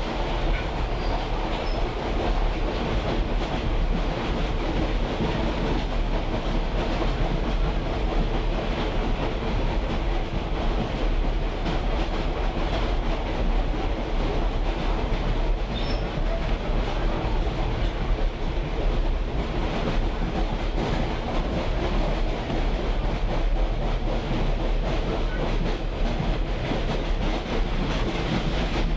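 Railroad caboose rolling along the track behind a diesel locomotive: a steady rumble and rattle of the car with clickety-clack of the wheels over rail joints.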